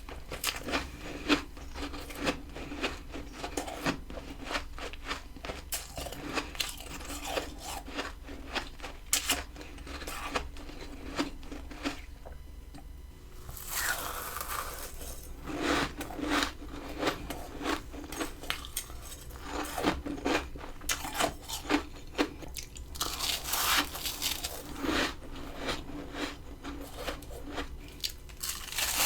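Freezer frost being bitten and chewed close to the microphone: dense, crisp crunching with many quick crackles. There is a short pause about twelve seconds in, then the crunching resumes.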